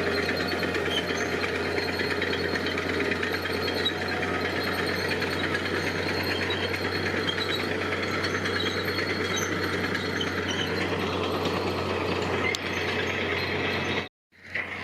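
Heavy construction machinery's diesel engine running steadily with a fast rattle. The sound cuts out abruptly for a moment near the end, then returns.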